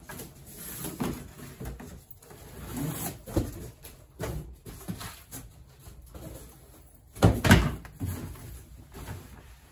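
Packing noise as an item and cardboard are handled on a table: a series of irregular knocks, bumps and scrapes, the loudest a close double bump about three-quarters of the way through.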